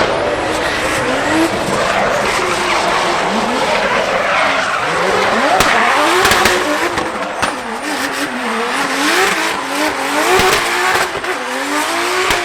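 A drifting car's engine revs up again and again in rising sweeps while its tyres squeal and skid continuously.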